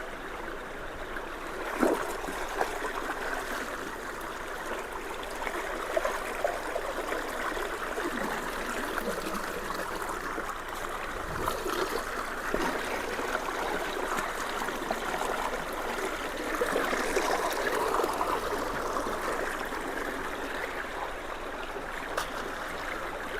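Creek water flowing fast and gurgling steadily at a culvert being unclogged of sticks, with a few light knocks.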